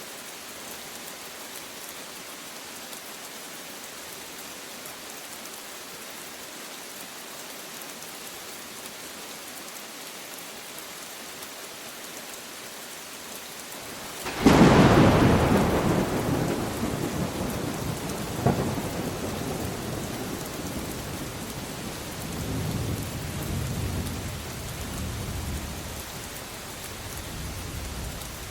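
Steady rain, then a sudden close thunderclap about halfway through that rolls away as a long low rumble, with a second sharp crack a few seconds later, the rain going on throughout.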